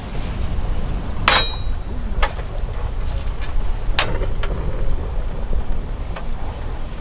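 Strong wind buffeting the microphone as a steady low rumble, with about five sharp clicks and knocks, the first with a short metallic ring.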